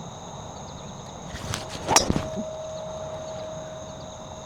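A golf driver swung through on a tee shot: a short swish, then one sharp crack as the club face strikes the ball about two seconds in. Crickets chirr steadily underneath.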